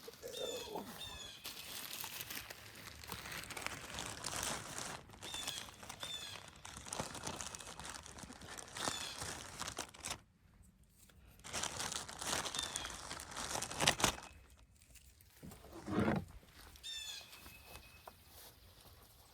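Irregular crinkling and rustling noise, with a couple of dull low thumps, while a bird sings a short repeated chirping phrase every few seconds.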